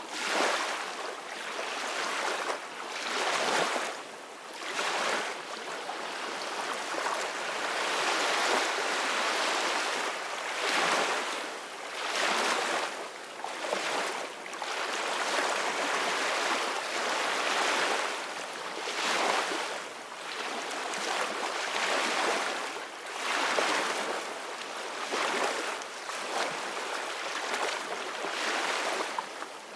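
Ocean waves breaking and washing in: a continuous rush of surf that swells and eases in irregular surges, with brief lulls every few seconds.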